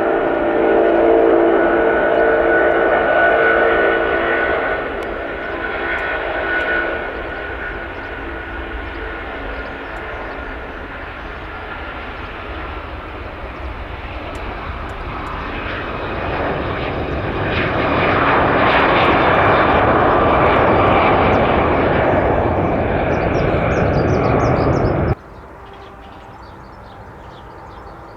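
Jet airliner engines: a steady whine with a few held tones at first, easing off, then the engine noise swells up again and cuts off suddenly about three seconds before the end, leaving a much quieter background.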